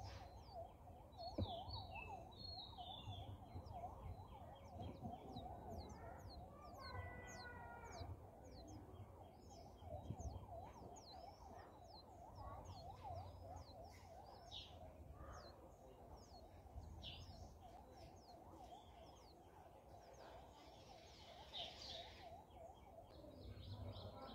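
Faint, short, high bird chirps, repeated many times, over a steady, rapidly wavering lower tone.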